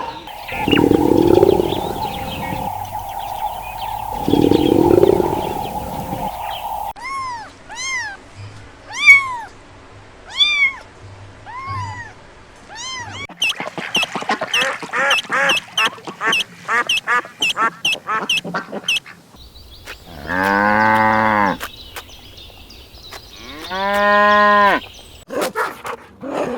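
A run of different animal calls, one after another. First comes a steady tone with two low noisy bursts under it. Then come repeated short arched chirps, a fast run of quick high calls, and two drawn-out pitched calls near the end.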